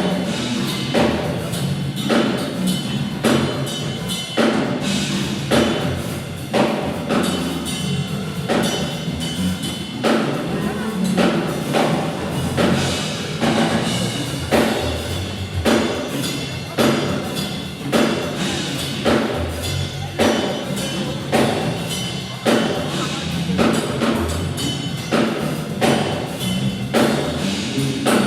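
Drum kit played non-stop, a steady driving rhythm of hits.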